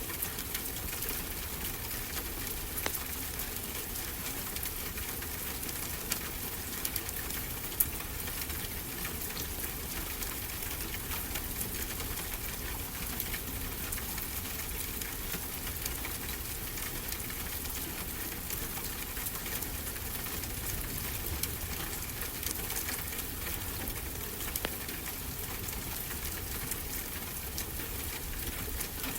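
Wood fire crackling, with scattered sharp pops, over a steady rushing wash of ocean surf.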